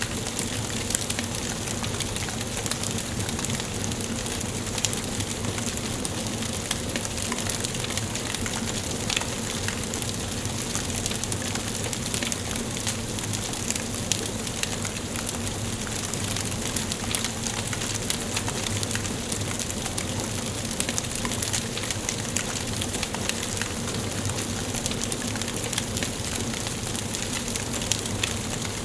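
Wood fire burning in a fireplace: a steady hiss with many small, irregular crackles and snaps.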